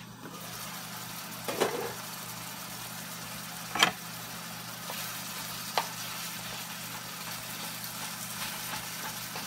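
Ground buffalo meat and onion sizzling in a hot frying pan, the hiss growing louder just after the start as the lid comes off. A few sharp clinks and knocks from the lid and utensils, the loudest about four seconds in.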